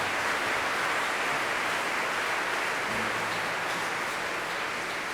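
Audience applauding, a dense, even clapping that slowly dies down.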